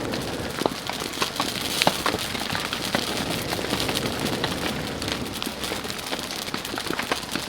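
Steady rain falling, with scattered sharp crackles and pops from a wood campfire.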